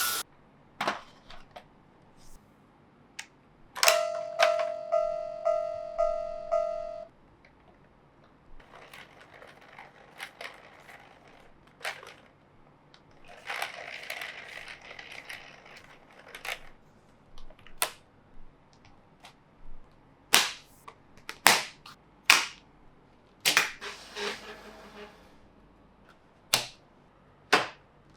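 Plastic toy train track and parts clicking and snapping together by hand, in scattered sharp clicks that come thick and fast near the end. About four seconds in, a toy gives a pulsing electronic beep for about three seconds.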